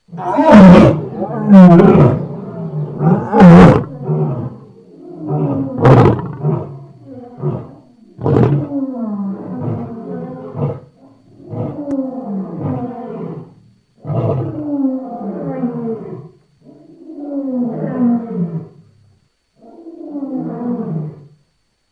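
Lion roaring: a bout of deep roars, the first three loudest, followed by a run of shorter grunting calls about every one and a half to two seconds, each falling in pitch and growing weaker toward the end.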